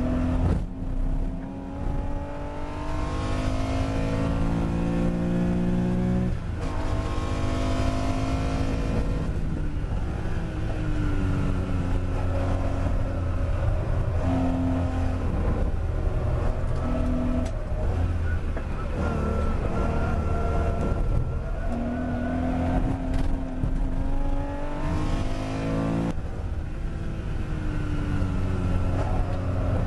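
Early Porsche 911 air-cooled flat-six engine heard on board at racing speed. It revs hard, the pitch climbing and then dropping sharply at gear changes about six seconds in and again near the end.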